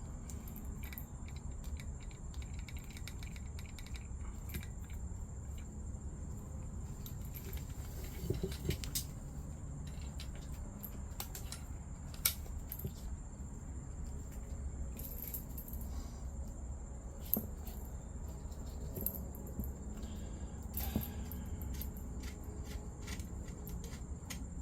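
Small metal clicks and clinks of propane regulator and hose fittings being handled and screwed together by hand, scattered and irregular with a few sharper ticks, over a steady low hum.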